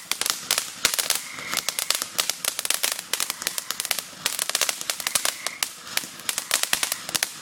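Fireworks crackling: a dense run of rapid sharp pops, many a second, swelling and easing in waves, with a faint short whistle now and then.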